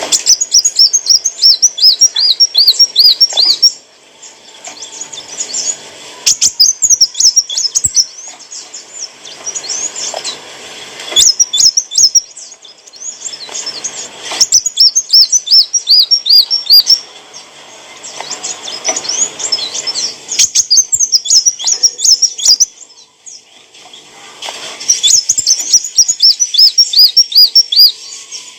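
Kolibri wulung sunbird singing in loud bursts of rapid, high-pitched chirps: quick strings of repeated notes lasting a few seconds each, with short pauses between them.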